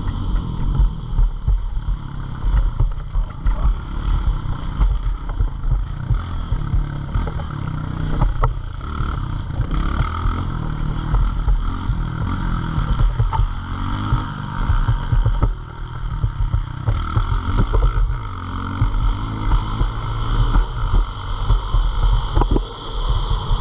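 Small-displacement pit bike engines running and changing revs, under heavy low rumble from wind buffeting the microphone.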